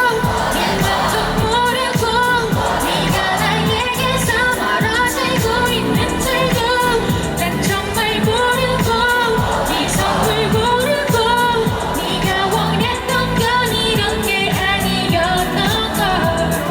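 Live Korean pop song: a singer's voice carried over a backing track with a steady beat.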